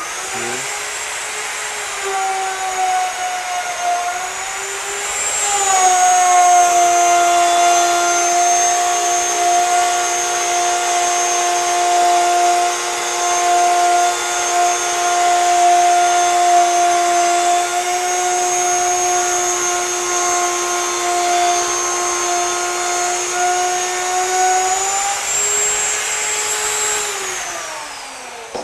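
Router mounted on the lathe's copy carriage running, its whine dropping in pitch about five seconds in as the bit bites into the fir post, then cutting steadily along a half-inch-deep flute. Near the end the pitch rises as the bit comes free of the wood, and the motor winds down.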